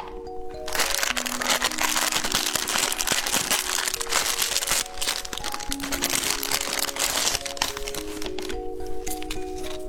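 Dense crinkling of plastic candy packaging, which eases off about three quarters of the way through, over background music with a simple melody.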